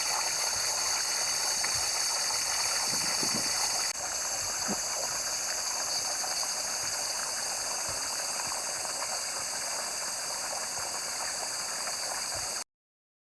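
Steady rushing outdoor ambience with a few fixed high bands running through it. It jumps at an edit about four seconds in and cuts off abruptly near the end.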